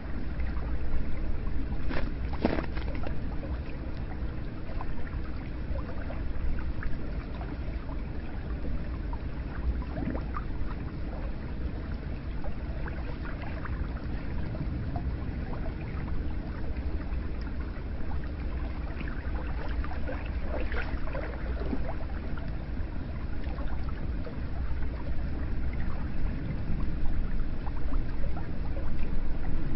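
Hot spring water flowing and splashing steadily, with brief louder splashes about two and a half seconds in and again around twenty-one seconds.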